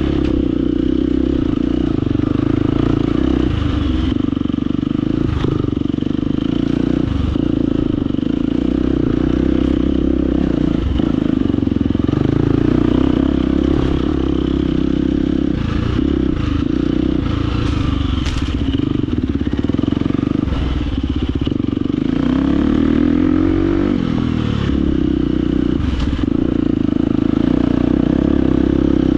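Husqvarna FE250 single-cylinder four-stroke enduro engine running hard at fairly steady revs, with a rise in revs about three-quarters of the way through. Scattered knocks and clatter sound throughout, typical of a dirt bike picking its way over rocks.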